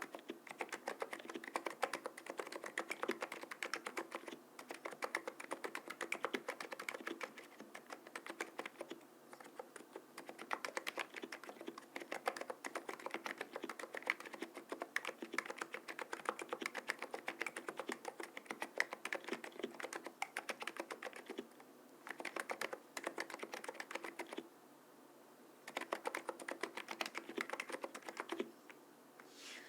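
Typing on a Cox CNK103 keyboard with Noppoo 50 g electrostatic capacitive switches and lubricated springs: a fast, continuous run of key strokes with brief pauses, the longest about 25 seconds in. The typing stops shortly before the end.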